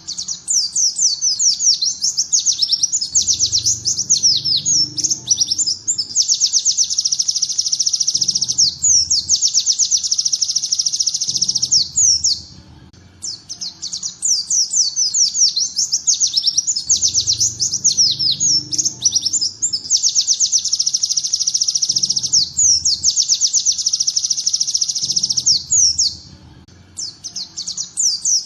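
Small songbird singing the rapid, chattering 'tembakan' volley song in the style of the bar-winged prinia, used as a tutor recording for oriental white-eyes. The high, fast chirp series runs almost without a break, pausing briefly about 12 seconds in and again near the end, and the same song sequence repeats as a loop.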